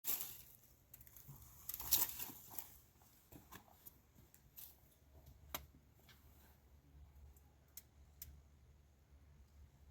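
Light rustling and scattered clicks, with a louder rustling burst at the start and another about two seconds in, then only a few faint clicks.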